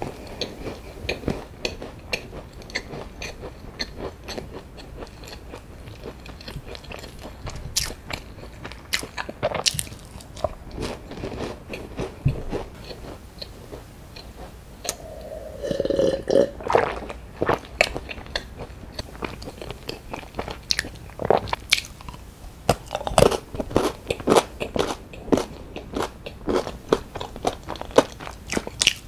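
Close-miked chewing of a flaky pastry stick dipped in strawberry milk, with many small crisp crunches. About fifteen seconds in come a few swallows of strawberry milk, then more crunchy chewing.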